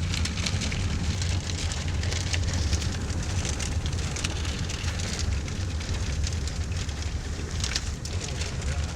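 Tornado-driven wind buffeting the microphone: a steady low rumble under a rough, crackling hiss, with stronger gusts now and then.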